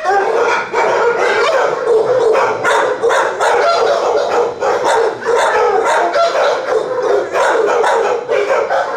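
Shelter dogs barking and yipping without pause, the barks overlapping several times a second.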